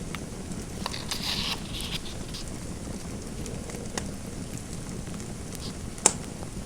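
Fireplace fire crackling: a steady low rumble with a few scattered sharp pops, the loudest one near the end, and a brief soft hiss about a second in.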